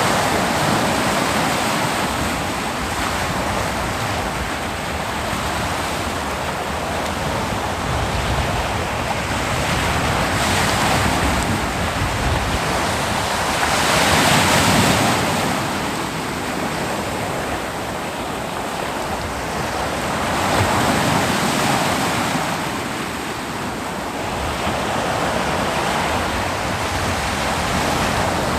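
Ocean waves breaking on a beach, a continuous wash of surf that swells and ebbs every several seconds, with the biggest surge about halfway through.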